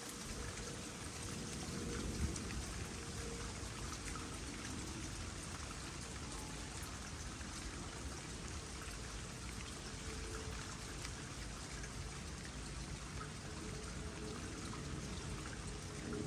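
Water trickling steadily into a small pond, with light rain pattering as many small scattered drops.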